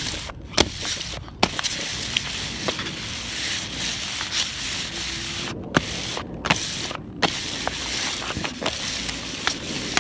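Paper or plastic bags holding snacks rustling and crinkling as they are handled and swapped, with many sharp crackles.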